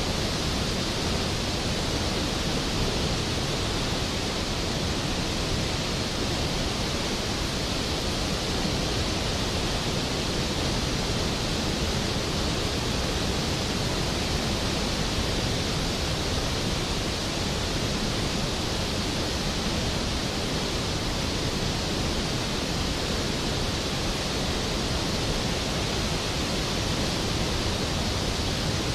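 Skógafoss, a large waterfall, pouring steadily: a constant, even rush of falling water with no breaks.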